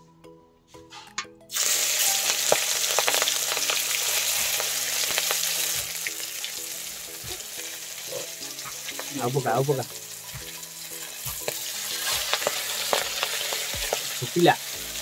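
Whole prawns frying in hot oil in an iron kadai. A loud sizzle starts suddenly about a second and a half in as a prawn goes into the oil, then carries on with many crackling pops.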